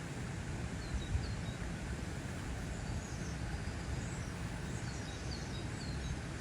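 Steady outdoor background noise, heaviest in the low end, with faint short high bird chirps about a second in and several more in the second half.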